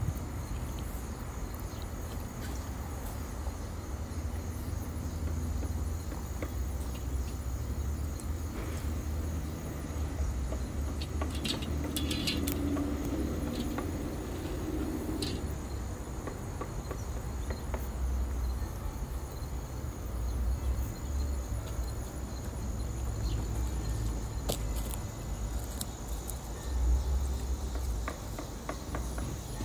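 Steady outdoor background: a constant low rumble under a thin, steady high insect drone, with a few light clicks and knocks now and then.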